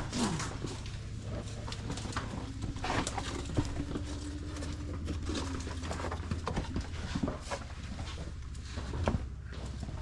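Shoes scuffing and scraping on sandy rock and loose grit during a rock scramble, with irregular clicks and rustles over a steady low rumble.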